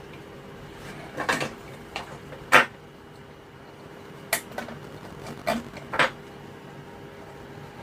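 Tools and small hard objects knocked and set down on a workbench: about seven separate short clicks and clacks, the loudest about two and a half seconds in, over a steady faint hum.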